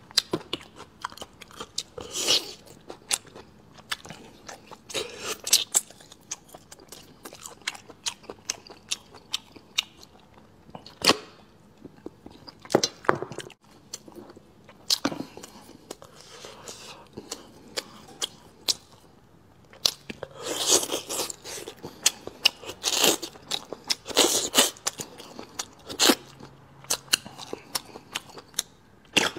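Close-miked chewing and biting of tough, rubbery braised skin: wet smacking with many sharp mouth clicks, growing louder and busier about twenty seconds in.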